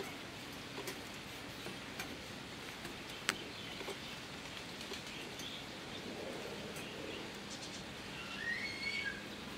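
Outdoor background hiss with a few scattered sharp clicks, the loudest about three seconds in, and a small bird chirping several short calls near the end.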